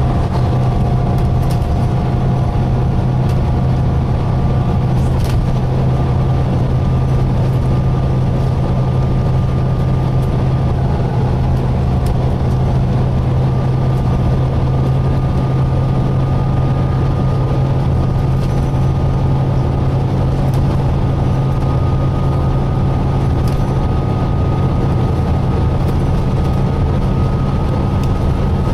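A Volvo B9TL double-decker bus running, heard from on board: a steady low drone with thin high whining tones, the highest climbing slightly in pitch through the second half.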